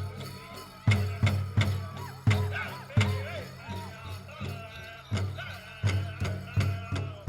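Powwow drum group: a large shared drum struck in unison at about three beats a second, with a couple of short breaks in the beat and singers' voices over it.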